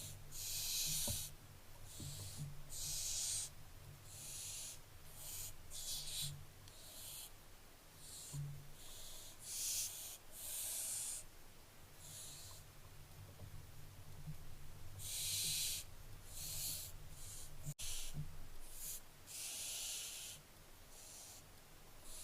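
Barn owl chicks giving their rasping, hissing 'snoring' calls over and over, each hiss lasting up to about a second. This is the call barn owlets use to beg for food.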